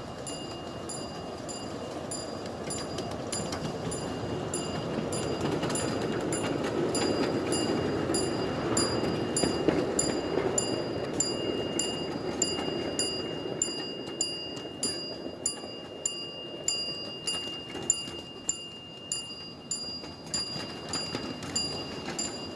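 Miniature live-steam train running on the rails: a rumble that swells through the middle, then regular clicks over the rail joints about once a second, with a thin steady high tone throughout.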